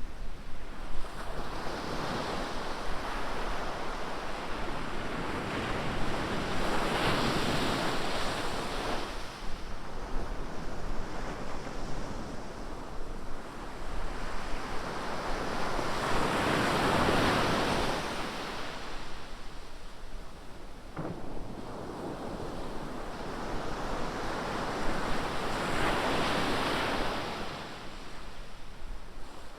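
Ocean surf on a beach: waves break and wash in, swelling three times about nine seconds apart, over a steady low rumble.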